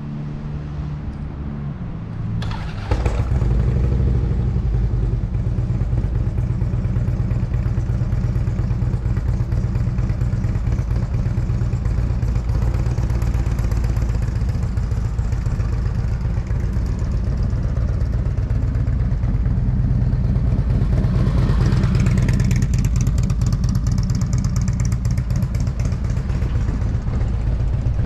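Motorcycle engine running at a steady pitch, growing louder with a sudden step about three seconds in.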